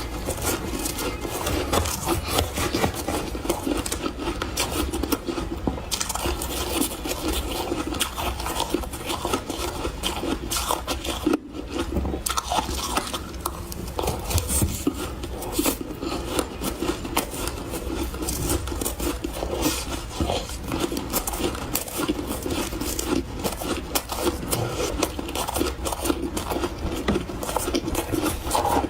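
Refrozen powdery ice being chewed in big bites: dense, continuous soft crunching, with one brief pause about eleven seconds in.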